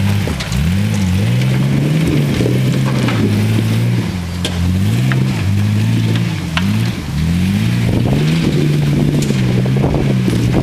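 A four-wheel drive's engine working under load off-road, its revs rising and falling repeatedly, with occasional short knocks.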